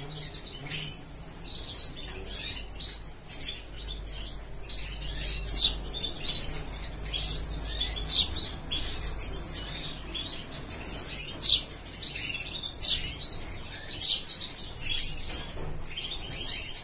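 Small birds chirping: short, sharp high chirps every second or so, with softer twittering between.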